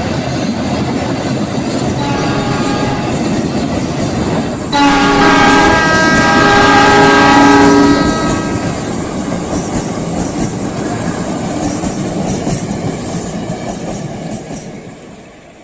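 Train running past with a steady rumble and clickety-clack, giving a short faint horn about two seconds in and a loud horn chord of several notes for about three seconds from near the middle, then fading away at the end.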